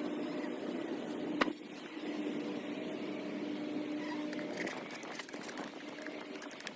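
Honeybees buzzing around an open hive: a steady hum that swells and fades, with a sharp click about one and a half seconds in and a few lighter clicks near five seconds.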